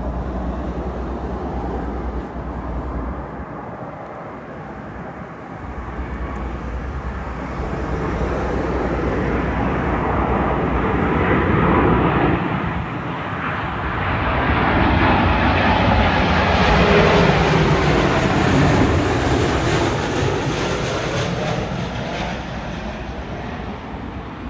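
American Airlines Boeing 777 jet engines on approach to land. The roar swells as the airliner passes, is loudest a little past the middle, then fades away.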